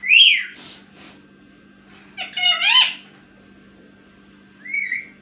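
Ringneck parrot calling three times: a short call at the start, a longer wavering call about two seconds in, and a shorter call near the end.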